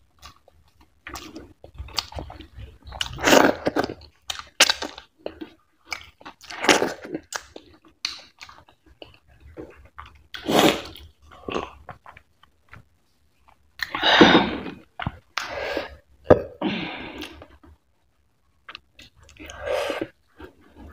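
Close-miked eating sounds from a person's mouth: chewing, lip smacking and mouth noises in separate bursts with short pauses. About halfway through comes a drink sipped from a glass.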